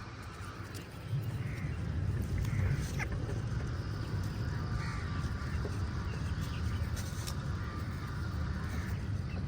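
Crows cawing in scattered calls, over a steady low rumble that grows louder about a second in.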